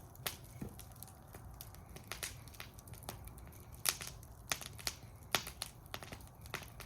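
Wood fire burning in a fire bowl, crackling with irregular sharp pops over a low steady rumble of the flames, the loudest pops about four and five and a half seconds in.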